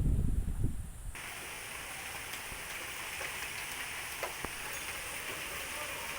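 Steady rain, an even hiss with scattered ticks of drops, coming in abruptly about a second in after a loud low rumble cuts off.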